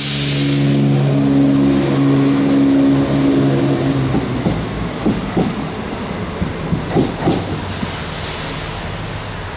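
Diesel train at the station: its engine drone ends about four seconds in, a short hiss sounds at the start, and then the wheels knock over the rail joints, several knocks in close pairs.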